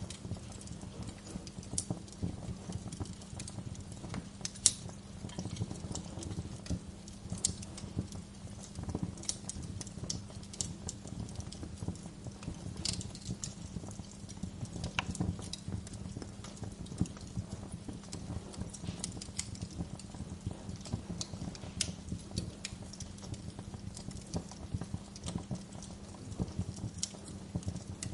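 Wood fire crackling, with irregular sharp snaps and pops over a steady low rumble, and one loud pop about five seconds in.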